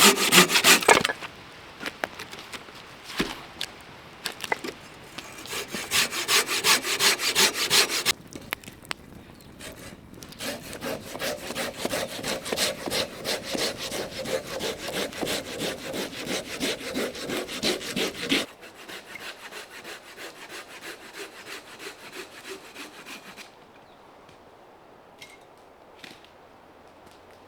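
Hand saw cutting dead, dry firewood with quick back-and-forth strokes, in several runs with short pauses between them. The sawing stops about three-quarters of the way through.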